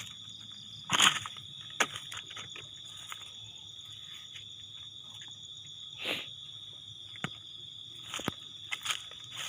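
Steady high insect chorus, like crickets, with footsteps crunching through dry leaves and undergrowth now and then, loudest about a second in and again near the end.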